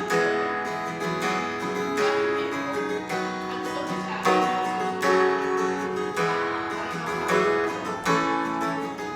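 Acoustic guitar strummed in chords, an instrumental break with no singing.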